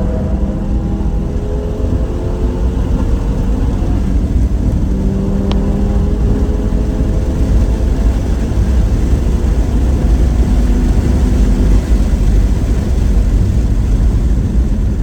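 Onboard sound of a car at speed on a racetrack: the engine note shifts in pitch and climbs again about five seconds in, over heavy low wind and road rumble that dominates the second half. A single short tick sounds about five and a half seconds in.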